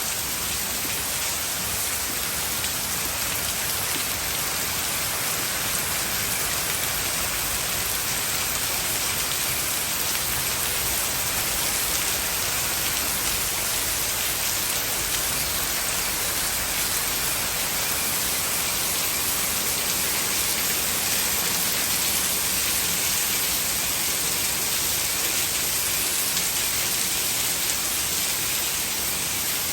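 Heavy rain pouring steadily, a dense even hiss of rain striking the ground and surfaces.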